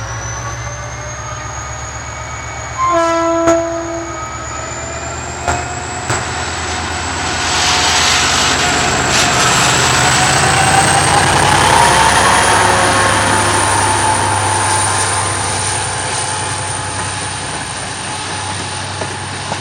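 GT22 diesel-electric locomotive pulling away under power, its engine throbbing steadily. It gives a short horn blast about three seconds in. A whine then rises in pitch and loudness as it accelerates, peaking about two-thirds of the way through before easing a little.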